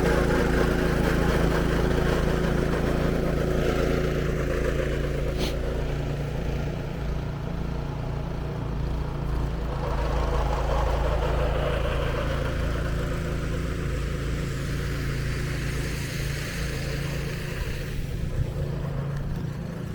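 Snow blower engine running steadily as it clears snow, with a single sharp click about five and a half seconds in.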